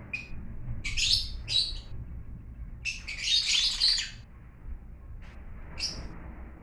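Lovebirds chirping in short, separate bursts of high calls, the longest lasting about a second around three seconds in.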